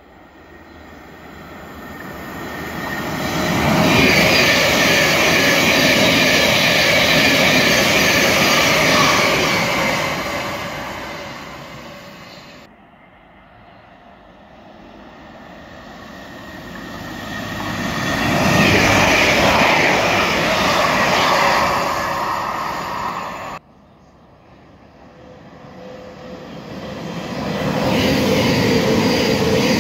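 Trains running through a station, heard as three separate passes cut together. Each grows to a loud rush as the train nears: the first fades away again, the second breaks off suddenly while still loud, and the third, a Thameslink Class 700 electric multiple unit, is loud and passing near the end.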